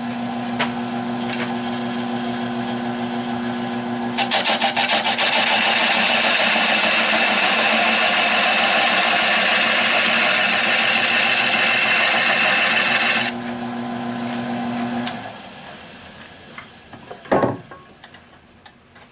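Nova 16/24 wood lathe running with a steady hum. A turning tool cuts deeper into the spinning oak tenon for about nine seconds, a loud rasping scrape. The lathe is then switched off and its hum stops, followed by a single knock.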